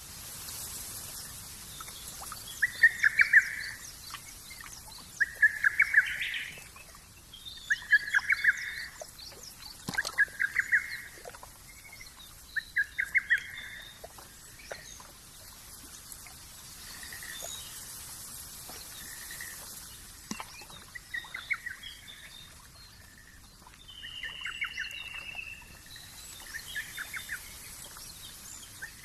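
Birds calling in a rural ambience: a short trilled call repeats every two to three seconds, louder in the first half and fading later, with light high-pitched chirps in between.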